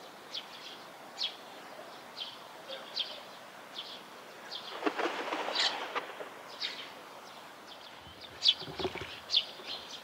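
A bird giving short, high chirps, roughly one a second, over a steady background hiss, with a louder stretch of noise about five seconds in.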